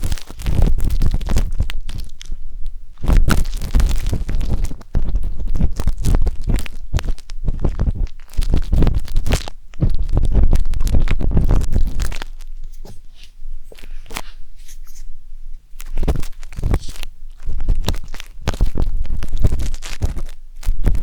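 Wooden tanghulu skewer scraping and rubbing inside the silicone ear canal of a 3Dio binaural microphone, close-up. Irregular scratchy strokes with deep rumbling thumps, quieter for a few seconds past the middle.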